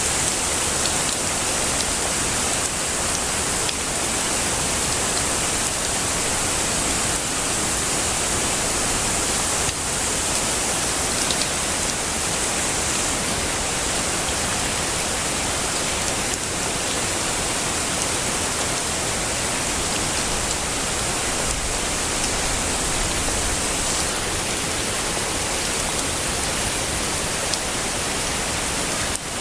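Heavy rain falling steadily, a dense even hiss with a few faint drop ticks.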